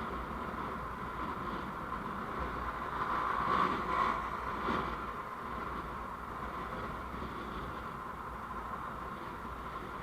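Steady road and engine noise of a moving vehicle, as picked up by a dash camera's microphone, with a brief swell about three to five seconds in.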